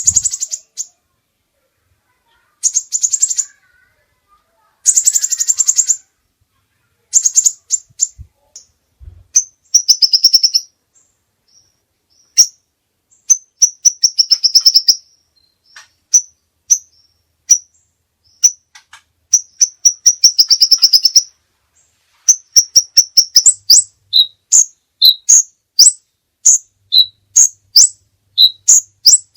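A caged songbird singing loudly in phrases: short dense buzzy rattles at first, then long rapid trills, and in the last third a string of separate short whistled notes alternating between a higher and a lower pitch, about two a second.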